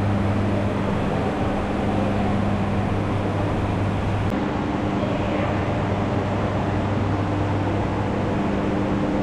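Steady low mechanical hum over an even rushing noise, with a slight shift in the hum about four seconds in.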